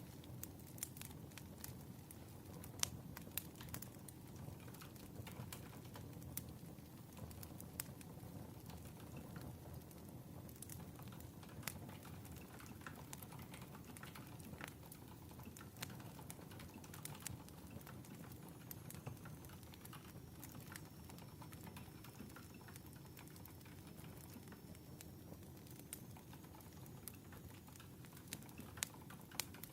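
Faint crackling wood fire: a steady low rumble with irregular sharp pops and snaps, and a thin high whistle in the second half.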